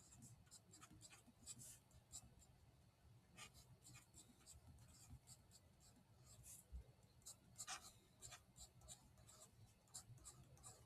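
Faint handwriting: short, irregular scratching and tapping strokes of a pen on a writing surface.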